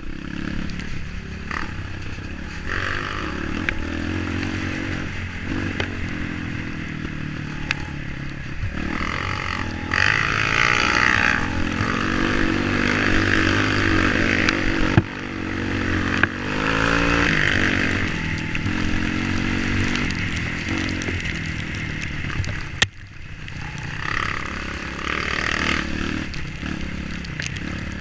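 Off-road motorcycle engine running and revving, its pitch rising and falling, with a few sharp knocks.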